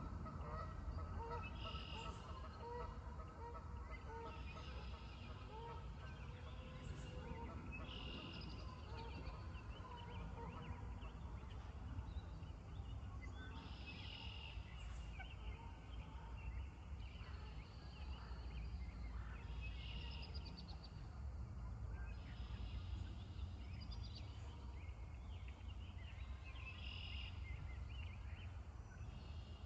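Pond ambience. Geese give a run of short, repeated low calls for the first third or so. High bird phrases recur every few seconds over a steady low rumble.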